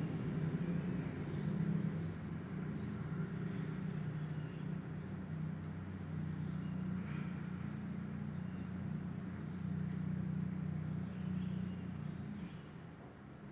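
A steady low mechanical hum, with faint short high chirps every second or two.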